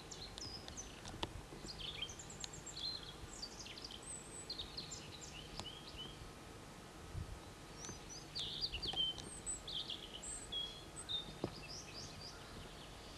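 Small songbirds singing and chirping, many quick high phrases overlapping and busiest a little past the middle, over a faint steady background hiss.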